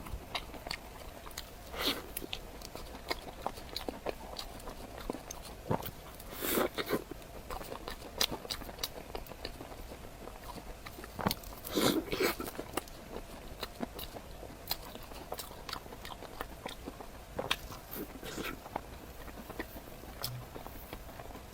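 Close-miked eating of a chocolate cream puff: irregular bites and chewing with wet mouth clicks, and a few louder bites several seconds apart.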